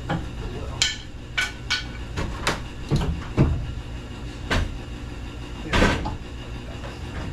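Irregular knocks and clanks of hand tools striking metal during garage door work, about nine sharp strikes spread unevenly over several seconds, over a steady low hum.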